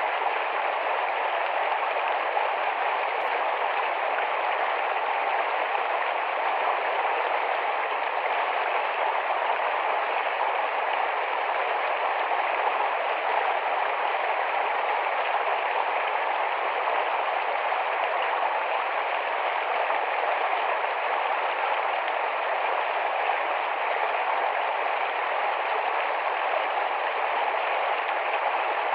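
Small, rapid forest stream flowing over stones, a steady even rush of water.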